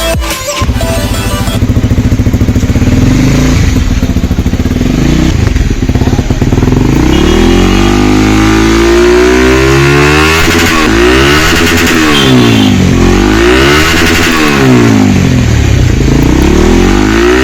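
Honda CBR150R single-cylinder engine through an aftermarket Yoshimura R77 exhaust, idling steadily at first. It is then revved repeatedly, the pitch rising and falling about every second and a half.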